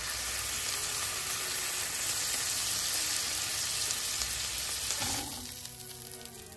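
Chicken patty sizzling as it fries in an oiled ridged grill pan, a dense, steady sizzle that drops away sharply about five seconds in.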